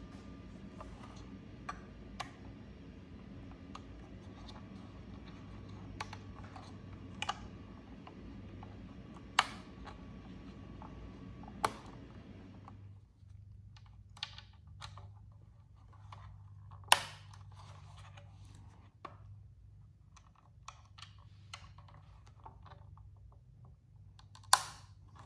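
Clicks, taps and a few sharp snaps of a restored pressed-steel Tonka toy car and its chrome bumper and plastic parts being handled and pressed together. A steady background noise under the first half cuts off suddenly about halfway through.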